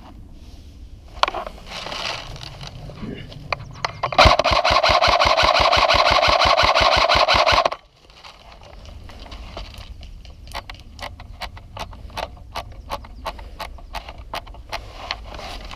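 Airsoft gun firing one long full-automatic burst of about three and a half seconds, starting about four seconds in, as an even rapid rattle that cuts off suddenly. Scattered light ticks and clicks follow.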